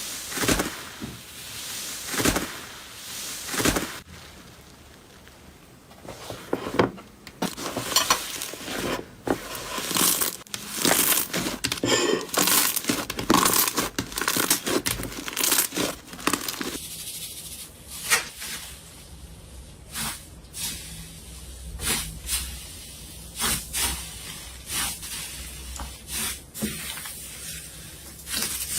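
Slime being squeezed, stretched and poked by hand, giving a run of sharp pops, clicks and crackles. About 17 seconds in the texture changes to sparser clicks over a low steady hum, as a different slime clip begins.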